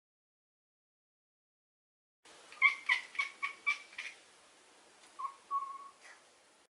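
Maine Coon cat chirping: after about two seconds of silence, a quick run of five or six short chirps, then one longer meow about five seconds in.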